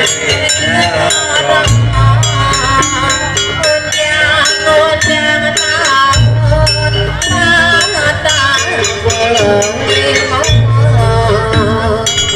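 Live Javanese jaranan ensemble music: a wavering melody over dense, quick percussion, with a deep low stroke about every four seconds.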